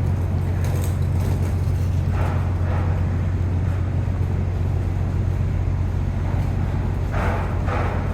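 Ferry's engines running with a steady low hum, and brief fainter noises about two seconds in and again near the end.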